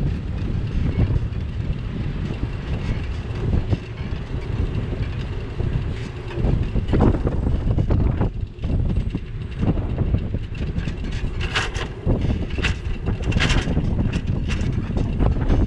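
Wind buffeting the microphone of a camera on a moving bicycle, a heavy low rumble, with short sharp clatters several times in the last few seconds.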